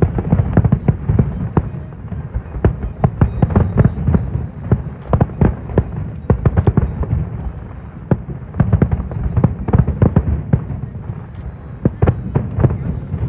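An aerial fireworks display: a dense, continuous barrage of shell bursts and crackling reports with deep booming underneath.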